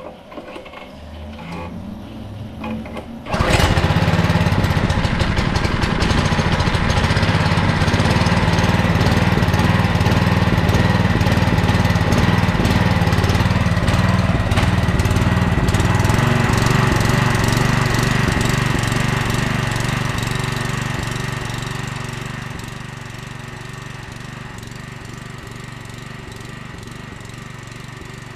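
Honda small engine on a pressure washer starting suddenly about three seconds in and running steadily at speed, then dropping to a quieter, lower running speed near the end. It is being tried at the lowest throttle setting after a carburetor cleaning, to see whether it now holds an idle instead of stalling.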